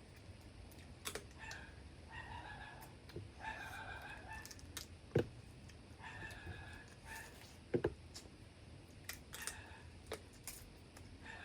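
Short pitched bird calls repeating every second or two in the background, over sharp clicks and cracks from eating crab.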